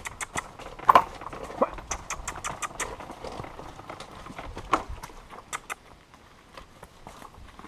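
A run of short, irregular clicks and knocks, with a few louder knocks about a second in and near the middle.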